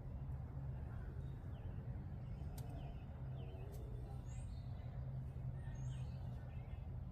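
Small birds chirping a few times, short quick falling notes, over a steady low hum.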